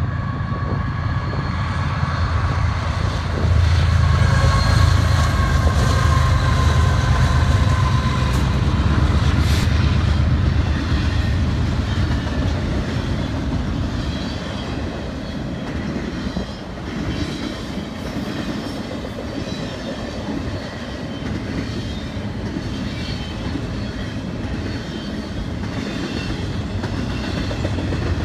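Diesel freight train passing: the locomotives' engines rumble deep and loud, peaking a few seconds in and easing off after about ten seconds. Then the double-stack container cars roll steadily past on the rails.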